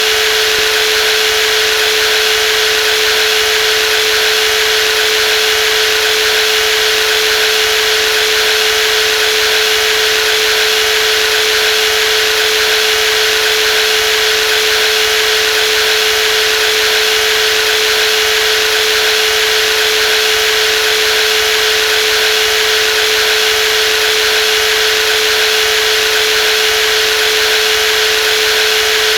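Brushless jigsaw running steadily, a constant motor whine with one strong steady tone over an even hiss, unchanging throughout.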